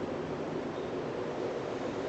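Mid/late-1980s Air Cool TFG-series ceiling fan running steadily on its high speed setting, giving an even, unchanging noise.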